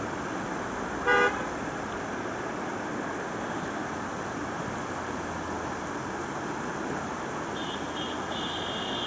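Steady rush of a river, with a short vehicle horn toot about a second in and faint high beeps near the end.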